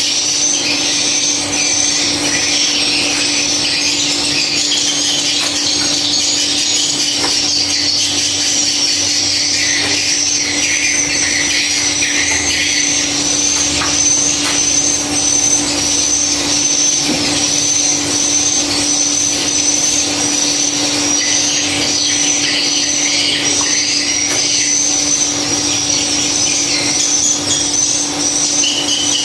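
Dense, continuous chirping and twittering of many swiftlets, over a steady low hum.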